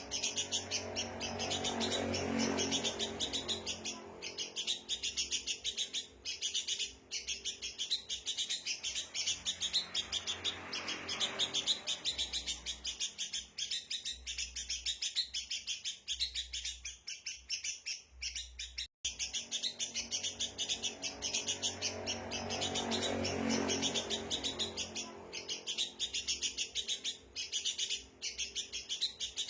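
Sooty-headed bulbuls (kutilang) chattering noisily, a dense, unbroken run of rapid high chirps. It is the agitated bulbul chatter used as a lure call to draw wild birds in.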